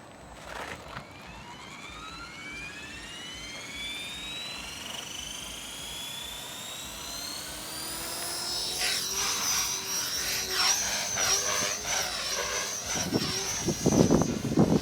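Radio-controlled model airplane's motor spooling up with a steadily rising whine, then running at a high, steady pitch that wavers as the plane flies at full throttle. A louder low rumble comes near the end.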